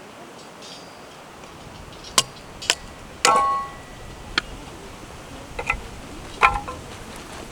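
About half a dozen sharp clinks and taps of hard objects over a steady low background, two of them ringing briefly.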